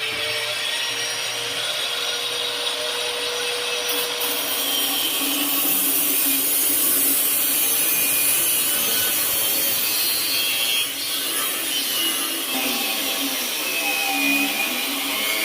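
Angle grinder running steadily: a motor whine over a dense, high hiss from the spinning disc.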